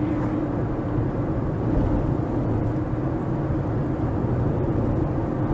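Steady engine and road noise of a moving car, with a constant low hum and no impact.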